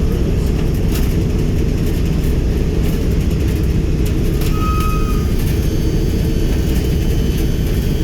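B-17G Flying Fortress's Wright R-1820 Cyclone nine-cylinder radial engines running steadily at low power, a dense, even drone.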